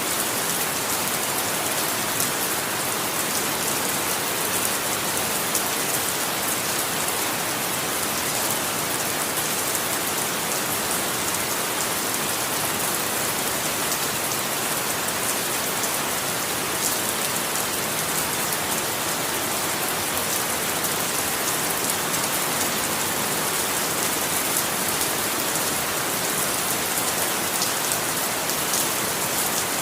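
Steady rain falling on a surface, an even hiss with fine patter of drops and no change throughout.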